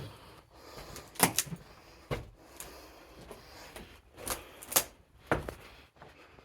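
Footsteps on old wooden stairs and floorboards: about six sharp, irregular knocks.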